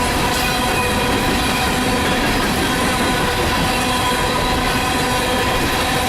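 Empty coal train rolling past at close range: a loud, steady rush of steel wheels on rail with several held high squealing tones over it.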